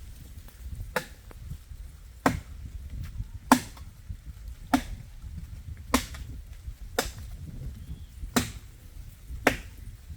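Hand-held blade chopping into a dry tree branch, about eight sharp strikes, each a little over a second apart.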